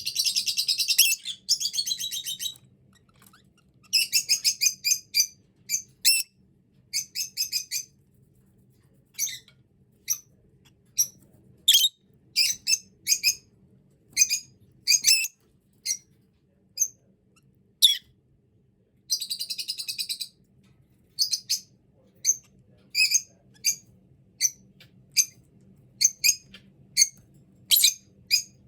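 Peach-faced lovebirds chirping: short, high-pitched chirps repeated every second or so, with bouts of rapid chattering at the start, about four to seven seconds in, and again around twenty seconds in.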